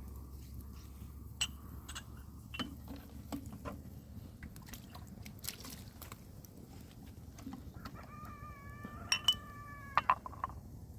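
Scattered light clicks and knocks, then a chicken's single drawn-out call about eight seconds in, lasting about two seconds and falling slightly in pitch, with a few sharp clicks over it near the end.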